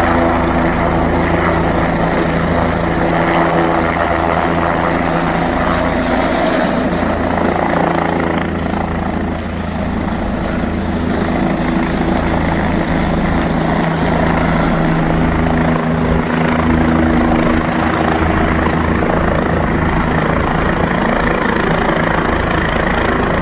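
Helicopter running, a loud, steady rotor and engine sound that eases slightly about nine seconds in and then comes back up.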